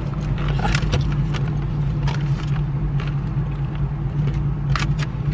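Steady low hum of a car heard from inside the cabin, with scattered light rustles and clicks.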